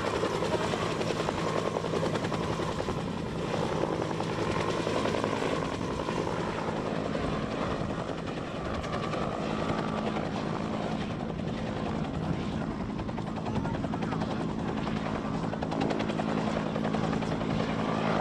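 Helicopter running steadily, the rotor's fast even chop over a constant turbine whine.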